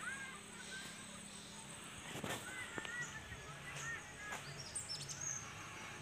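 Birds calling with many short chirps, some higher rising notes towards the end, and a few sharp clicks in the middle.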